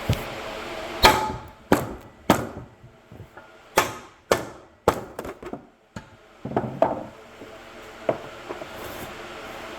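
Hammer blows on a steel hub knuckle, trying to knock out a stuck rear wheel bearing that has been pressed most of the way through. There are about fifteen sharp strikes at uneven intervals, some in quick runs, each with a brief ring.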